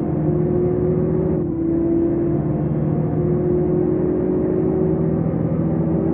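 Sports car's engine running at steady revs while driving, with a brief dip about one and a half seconds in.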